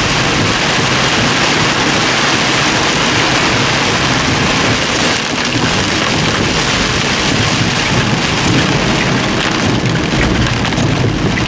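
Torrential rain pouring down, a loud, steady, dense hiss.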